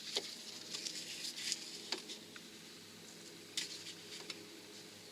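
Faint, scattered light clicks and knocks, about half a dozen, from tools and metal parts being handled, over a faint steady hum.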